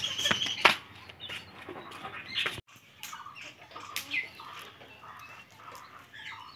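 Small birds chirping in short, scattered calls, with a few sharp clicks in the first second.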